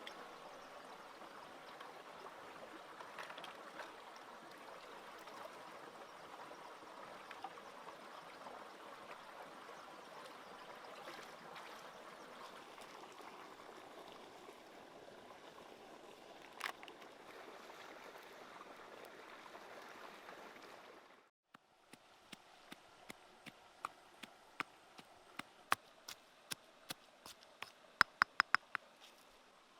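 Steady water noise for about twenty seconds, then a sudden cut. After that a run of sharp clicks comes in and grows faster and louder near the end.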